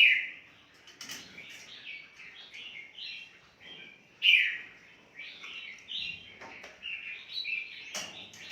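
Many caged birds chirping and calling at once, with loud sharp calls at the start and about four seconds in. The breeding pairs are calling as they wait to be fed.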